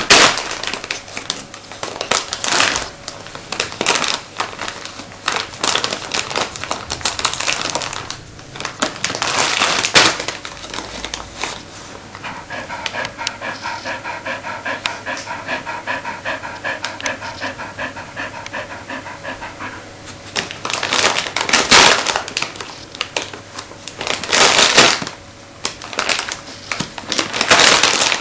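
Bearded Collie panting hard while ripping and rustling wrapping paper off a present, in repeated loud bursts of crinkling and tearing. In the middle there is a held pitched sound lasting several seconds.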